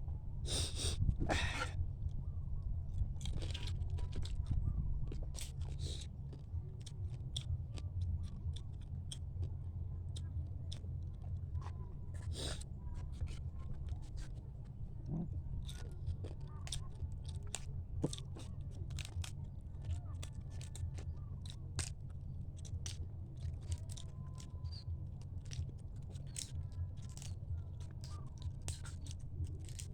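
A person eating close to the microphone: chewing with many short, sharp crunches and clicks scattered throughout, over a steady low hum.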